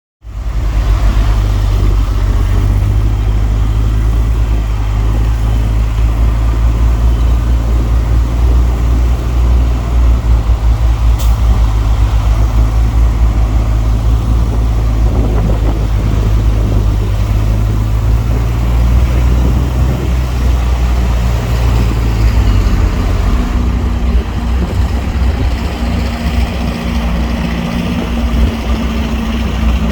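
Heavy diesel engine of earthmoving machinery running steadily and loudly, its low note shifting about three quarters of the way through as the machine changes load or speed.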